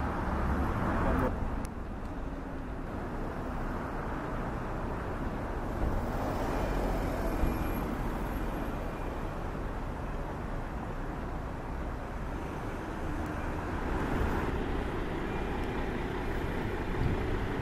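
Motor vehicle engine running steadily, with road traffic noise.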